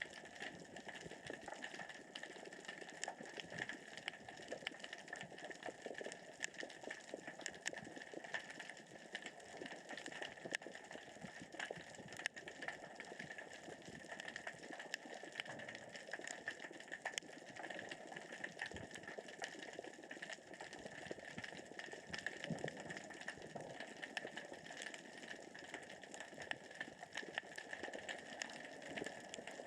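Underwater crackling and clicking of small rocks rolling across the sea floor as the current and tide move them: a dense, steady crackle of many tiny clicks.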